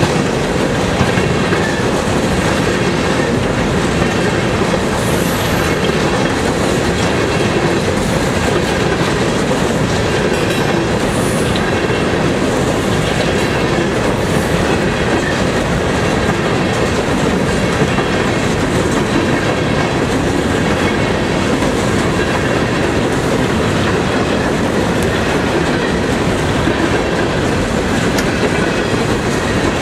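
Freight train of loaded-looking high-sided hopper cars rolling past close by: a loud, steady rumble with wheels clicking over the rail joints and a couple of brief high wheel squeals in the first half.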